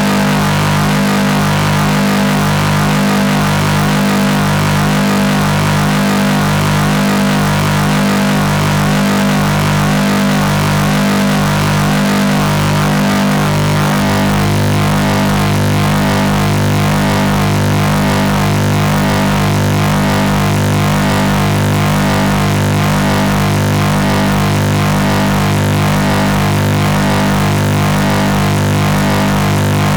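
Harsh experimental noise music: a loud, dense wall of droning low tones with a grinding, engine-like texture. A stuttering pulse in the bass gives way to a steadier drone about halfway through.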